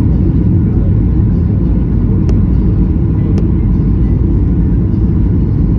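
Steady loud low rumble of an airliner's cabin noise in flight, with two short clicks a little over two and three seconds in.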